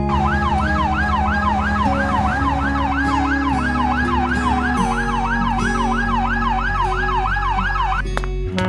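Emergency vehicle siren in a fast yelp, its pitch sweeping up and down about three times a second, cutting off near the end, over background music.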